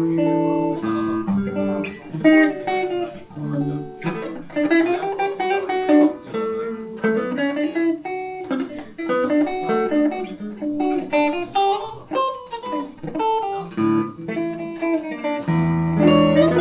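Van Zandt Telecaster played clean through a Roland JC-120 amp in a blues instrumental passage: quick single-note lead lines with some bent notes, over low bass notes at the start and again near the end.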